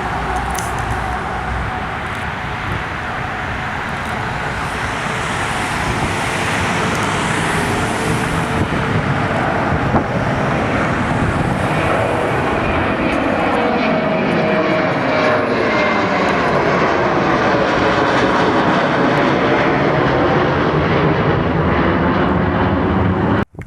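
Jet airliner passing close by, its engine noise a loud rushing with a shifting whine that grows louder over the second half, then cuts off abruptly near the end.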